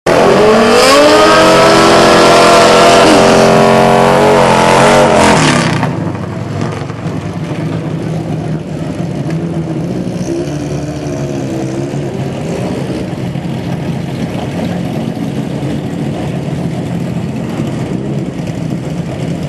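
Drag racing motorcycle engine at full throttle, its pitch climbing and stepping down at each gear change for about the first six seconds. The sound then drops suddenly to a lower, steady engine rumble, with faint revving from an engine at a distance a few seconds later.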